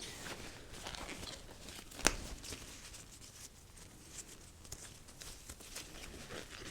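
Faint workbench handling noises, with one sharp click about two seconds in.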